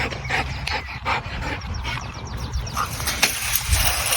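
Belgian Malinois panting: a run of short, irregular, breathy puffs over a low rumble.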